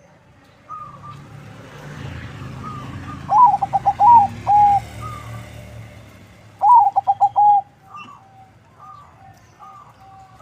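Zebra dove (perkutut), a cross of local and Bangkok lines, singing. It gives two loud phrases a few seconds apart, each a quick run of stuttering coos ending in a longer held note. Fainter coos from other doves come between them.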